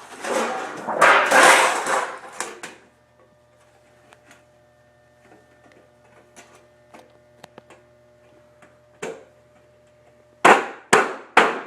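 Galvanized sheet-metal duct pieces handled, scraping and rattling for a few seconds, then small scattered clicks. Near the end come four sharp cracks about half a second apart, as the metal is cut out with snips.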